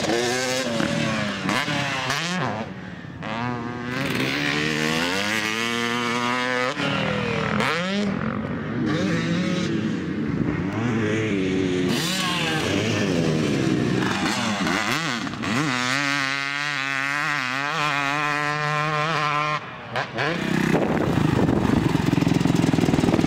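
Dirt bike engines revving up and down on a motocross track, pitch climbing and dropping repeatedly as the bikes accelerate and shift, with abrupt changes in the sound around twelve and twenty seconds in.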